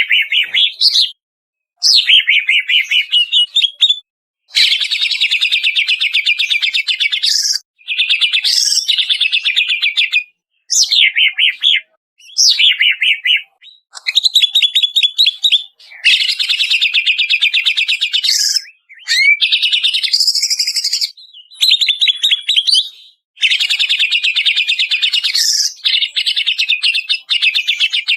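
Cucak ijo (greater green leafbird) singing in fast chattering trills and whistled phrases, each lasting one to four seconds, separated by short gaps that start and stop abruptly.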